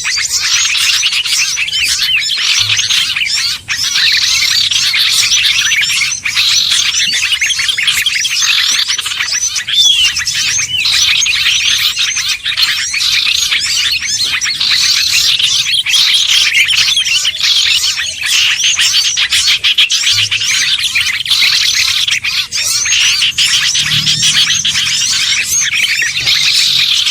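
Dense, unbroken chorus of many small songbirds chirping and twittering over one another, a layered bird-trapping lure recording of small species such as bulbuls, sunbirds, ioras and prinias.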